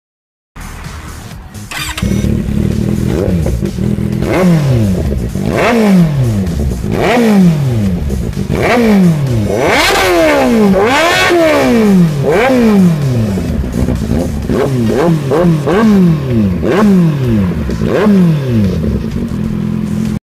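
Kawasaki Z800's inline-four engine on an aftermarket exhaust, idling and then blipped by the throttle over and over. Each of the many quick revs rises sharply and falls back toward idle.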